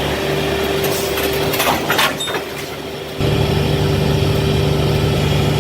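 Heavy equipment engine running steadily, with a few knocks about two seconds in. The engine gets louder and deeper about three seconds in.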